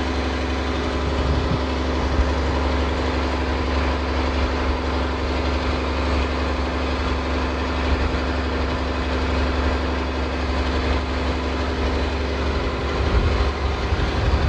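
An engine running steadily at idle, a constant low hum with no change in pitch.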